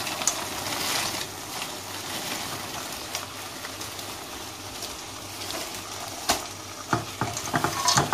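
Frozen peas sizzling in hot oil and tomato paste in a stainless steel pot, added straight from the freezer without thawing. A few sharp knocks sound over the sizzle about six seconds in and near the end.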